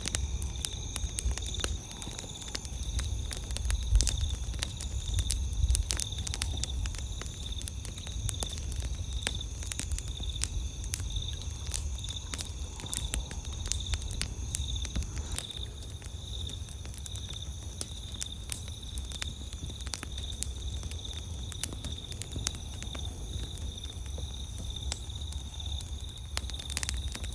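Wood campfire crackling, with frequent sharp pops and snaps throughout. Under it a steady high insect chirring of the night and a low rumble, heavier in the first few seconds.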